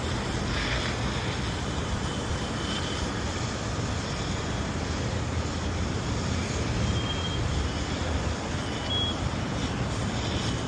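Steady low rumble of vehicle engines and traffic, with a few faint, short high-pitched beeps.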